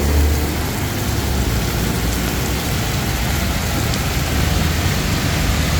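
Heavy rain pouring steadily onto the street as a dense hiss, with the low rumble of vehicle engines underneath, loudest near the start.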